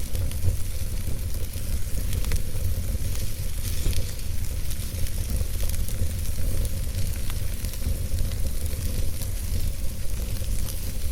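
Logs burning in a fireplace: a steady hiss over a low rumble, with scattered crackles and a few sharper pops.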